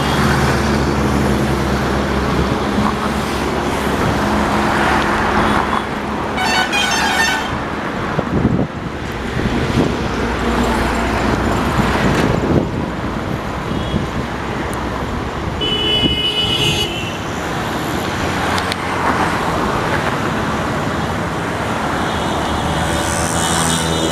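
Steady road traffic noise, with vehicle horns honking a few times: once about seven seconds in, again around sixteen seconds, and near the end.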